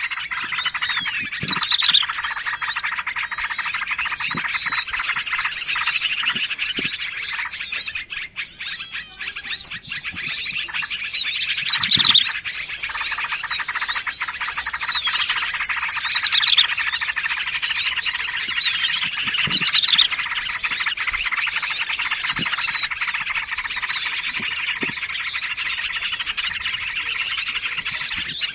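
A dense chorus of small songbirds chirping and trilling over one another without a break: a bird-trapping lure mix of yellow-vented bulbul (trucukan), prinia (prenjak), sirtu and sogon calls.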